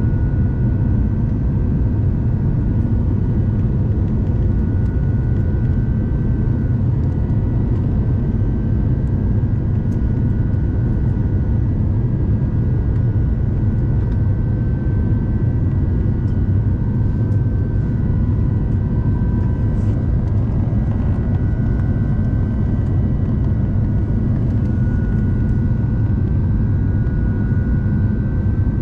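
Steady cabin noise of an Airbus A350-900 in flight: a deep, even rumble from its Rolls-Royce Trent XWB engines and airflow, with a faint steady whine on top.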